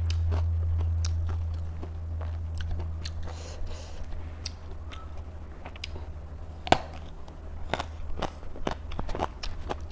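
Crisp bites and chewing of raw vegetables close to the microphone: irregular crunches and crackles, the sharpest about seven seconds in, over a steady low hum.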